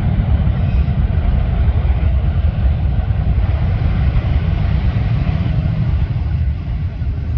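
Boeing 787-9 jet airliner's engines on approach to land: a steady, heavy low rumble with a rushing hiss above it.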